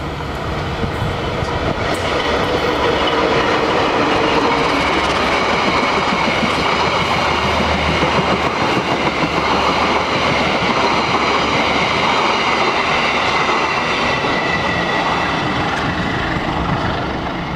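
Diesel-hauled passenger train passing close by: a loud, steady rumble of the coaches with wheels clacking over the rail joints, and a thin high wheel squeal through the middle of the pass.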